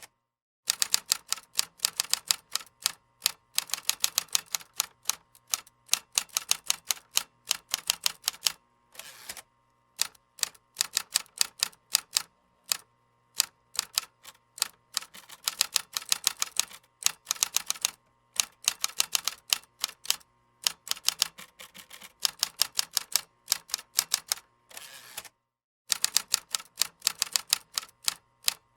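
Computer keyboard being typed on: rapid runs of sharp key clicks lasting a few seconds each, broken by short pauses, as in a burst of typing.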